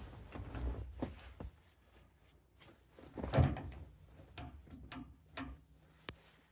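Irregular knocks, clicks and clunks of objects being handled, the loudest a heavy thump about halfway through.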